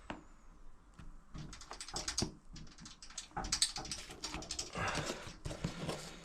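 Irregular rustling, rubbing and light tapping as a vinyl decal is pressed and smoothed down by hand onto a plastic dirt bike side panel, getting busier about halfway through.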